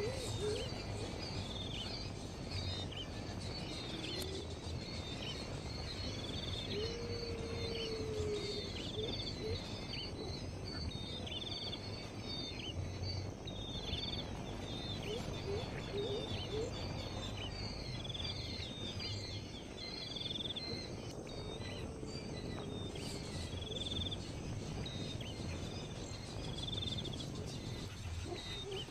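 Birds chirping outdoors: short high calls repeating throughout, with a few lower sliding calls, over steady background noise and a low hum.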